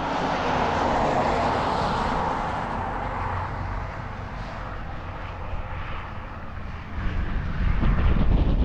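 Noise of a passing vehicle, loudest a second or two in and then fading away. From about seven seconds in, wind buffets the microphone with a low rumble.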